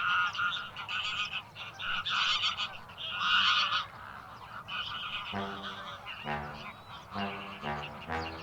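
A flock of greater flamingos calling: many overlapping goose-like honks, with deeper, separate honks from about halfway through.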